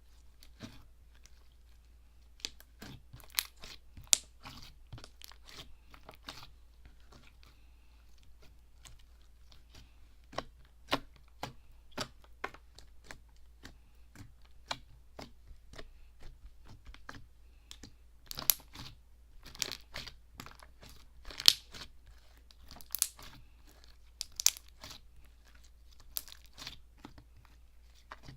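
Avalanche slime being squeezed and pressed by hand, giving off irregular crisp clicks and pops. The clicks come thicker and louder in clusters in the latter part.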